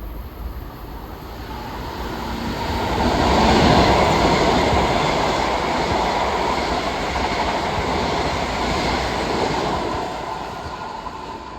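Long Island Rail Road train going by on the tracks, its wheel-on-rail noise swelling over the first few seconds, holding steady, then fading near the end.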